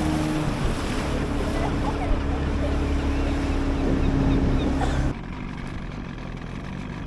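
Small boat's motor running steadily under way, with water and wind noise over it. About five seconds in, the sound drops abruptly to a quieter, duller level.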